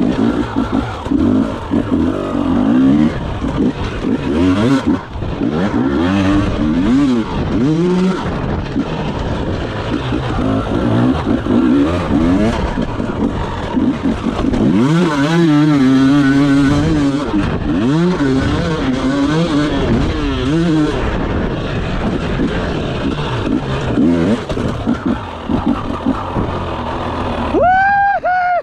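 Enduro motorcycle engine revving hard and rising and falling in pitch again and again as it is ridden round a rough dirt track, with a brief high-pitched tone near the end.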